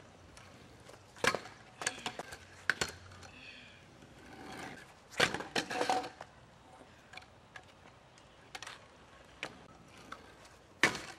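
Trick scooter clattering: sharp knocks and clacks of the deck and wheels hitting the ground, a few single hits early on, a quick cluster about five to six seconds in, and one more near the end.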